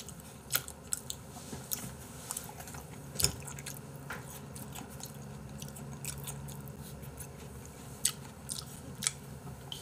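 A person chewing raw beef slices close to the microphone: soft wet mouth sounds, with a few short sharp clicks scattered through.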